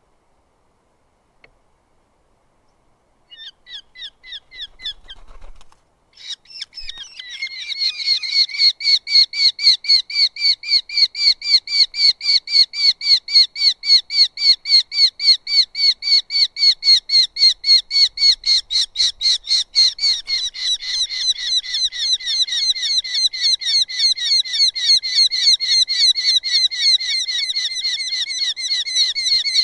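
Eurasian hobby calling at the nest: a long, loud run of rapidly repeated calls, about three a second. The calls begin a few seconds in, break off briefly, then carry on without stopping.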